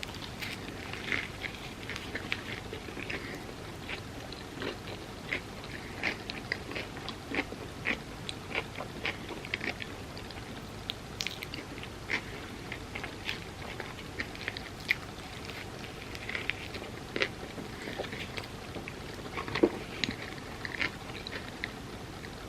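Close-miked chewing of crispy fried food, a vegan fried chicken sandwich and fries: an irregular run of sharp crunches, several a second, with one louder crunch near the end.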